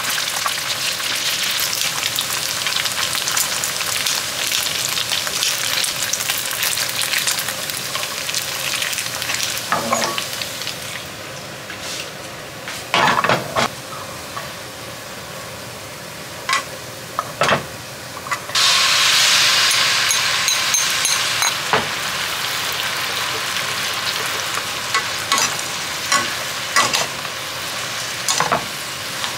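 Food frying in hot oil with a steady sizzle. A little over halfway through, the sizzle swells suddenly louder for a few seconds. A few sharp clicks sound over it.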